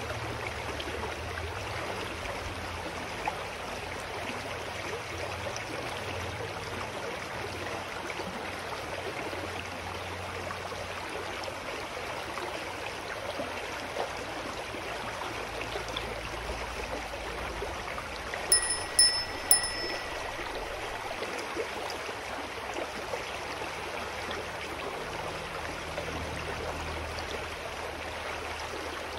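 A clear mountain stream runs and trickles steadily. About two-thirds of the way in, a small bell rings three quick times, the last ring held briefly.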